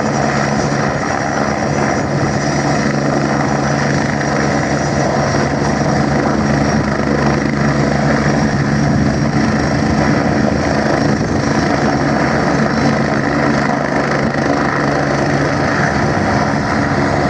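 Helicopter running, a loud, steady mechanical drone with a constant low hum that does not change.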